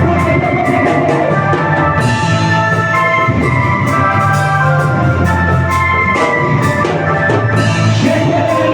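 Band music with keyboard chords, bass and drums, and some singing.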